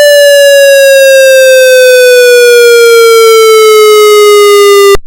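Federal MCP electronic siren sounding its wail: one loud, buzzy tone sliding slowly down in pitch, then cutting off abruptly near the end.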